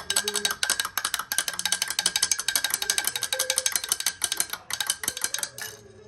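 Electronic video-game sound: a fast, even run of ticks over a steady high tone that stops suddenly near the end.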